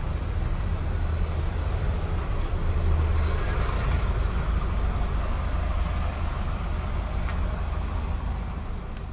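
Road traffic: a heavy vehicle's engine running close by, with a steady low hum under general street noise.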